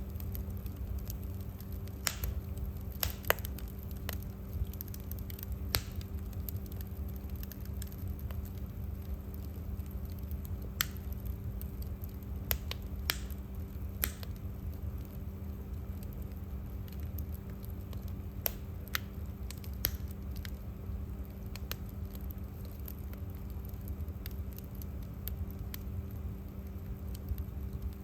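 Wood fire crackling in a fireplace: irregular sharp pops and snaps over a low steady rumble, with a faint steady hum underneath.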